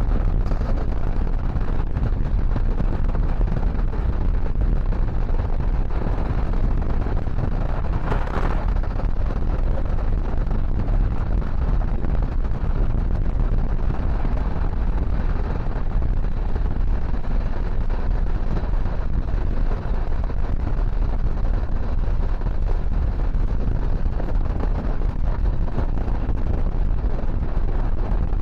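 Passenger train running, heard from on board as a steady, loud rumble and rush, with a brief louder whoosh about eight seconds in.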